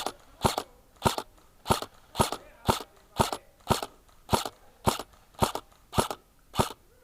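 Footsteps crunching on dry ground, walking at a steady pace of about two steps a second.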